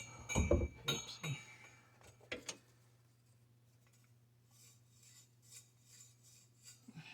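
A few light metallic clinks and knocks in the first couple of seconds, as copper pipe and fittings are handled, then near silence with a faint steady hum.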